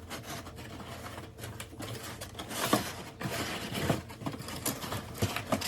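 Handling noises from unpacking: irregular rustling with light clicks and knocks, as packaging and parts are moved around, busiest about halfway through.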